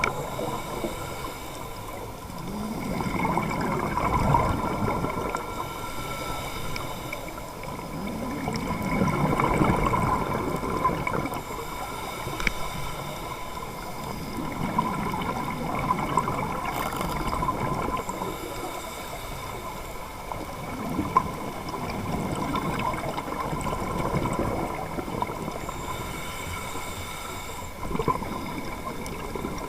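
Scuba diver breathing through a regulator underwater: slow, regular breaths with gurgling exhaled bubbles, swelling about every five or six seconds.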